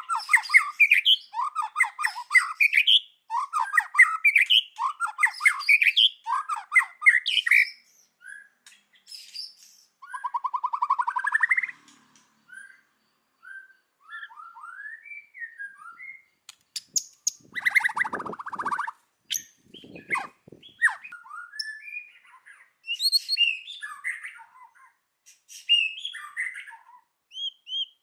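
White-rumped shama singing. It opens with a rapid run of chattering notes, gives a buzzy rattle, then varied whistled phrases. A noisy burst comes about two-thirds of the way through.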